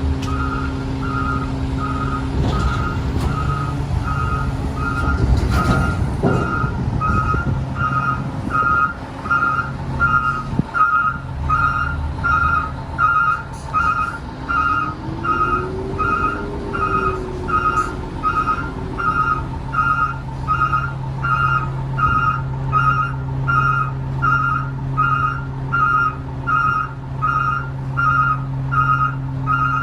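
Garbage truck's diesel engine running steadily while its backup alarm beeps about once a second. Around the middle, a whine rises in pitch and holds for a few seconds.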